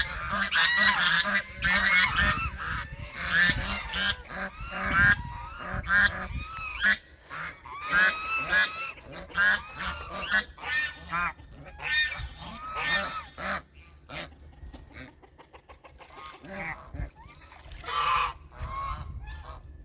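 A flock of domestic ducks calling, with many short calls overlapping thickly at first and thinning out about halfway through.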